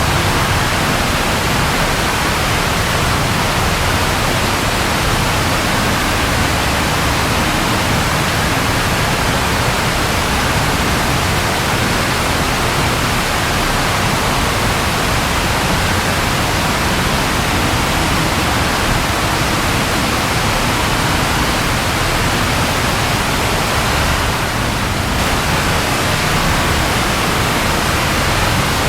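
Steady rain falling, a continuous even hiss spread across low and high pitches with no distinct claps or breaks.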